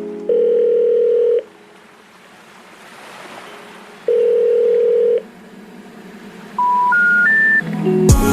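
Telephone line tones: two long purrs of a ringback tone about four seconds apart, then three short beeps stepping up in pitch, the special information tone that comes before a recorded 'number not reachable' message. Music starts right at the end.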